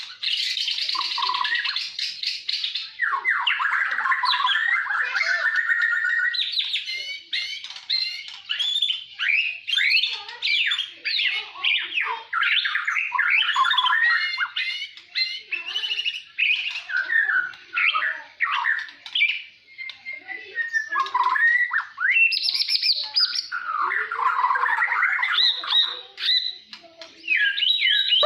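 White-rumped shama of the Bornean race (murai borneo) singing continuously: a long run of quick, varied whistles, trills and chattering phrases with no pauses.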